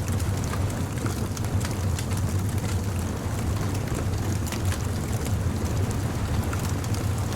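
Bonfire crackling, with many small sharp pops scattered over a steady low rumble.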